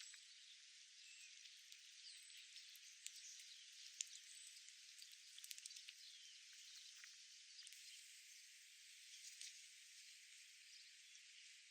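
Faint outdoor park ambience: a steady high hiss with scattered small, faint chirps and ticks, and one sharper tick about four seconds in.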